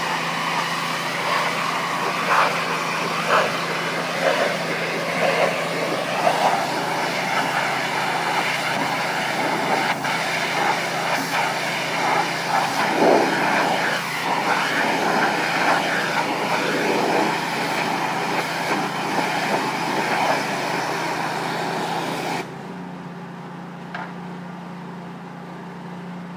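Pressure washer spraying a building wall: a dense steady hiss of the water jet over the steady hum of the machine's motor. About three seconds before the end the spray stops abruptly and the motor runs on alone.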